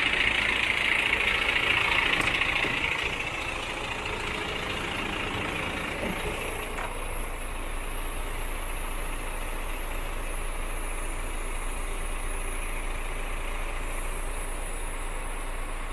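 Scania P380 truck's diesel engine idling steadily. A loud hiss sits over it at first and fades away about three seconds in.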